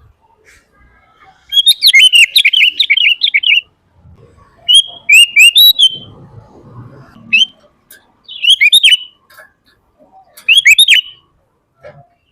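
Sooty-headed bulbul (kutilang) singing loudly: about five short phrases of quick whistled notes, separated by brief pauses.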